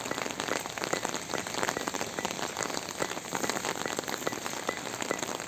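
Rain falling: a dense, steady patter of many individual drops.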